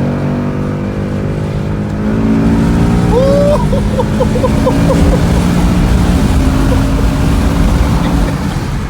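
Sports car's engine running under way from inside the cabin, a steady drone whose pitch steps down twice as the gears change.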